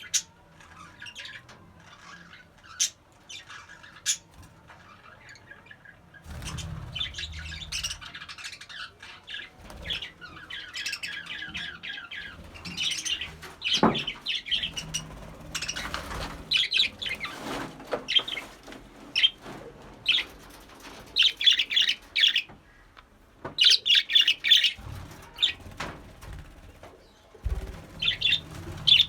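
Budgerigars chirping and warbling in rapid, busy chatter, starting about six seconds in and coming in clusters. A few sharp clicks come before it.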